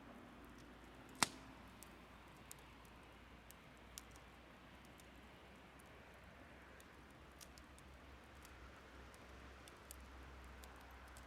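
Wood fire crackling: scattered small pops and ticks, with one sharp, louder snap about a second in, over a faint steady hiss.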